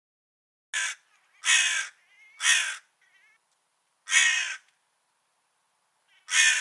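Crow cawing: five separate caws, irregularly spaced about one to two seconds apart, the first shorter than the rest.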